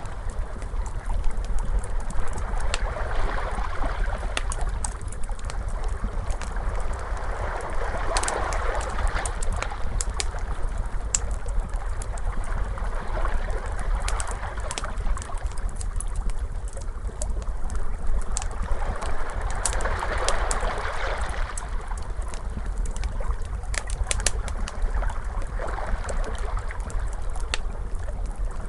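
Ocean waves washing in slow swells every few seconds, layered with a crackling fire's frequent sharp pops and snaps.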